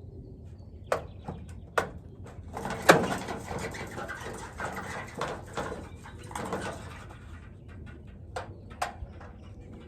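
Sharp knocks and a few seconds of dense rattling clatter from a metal downspout with a bird trapped inside it.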